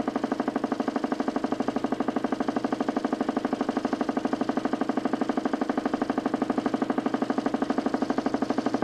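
DC motor spinning a 40cm plywood Nipkow disc in a homemade mechanical television, running at speed with a steady, rapid pulsing of about twelve beats a second.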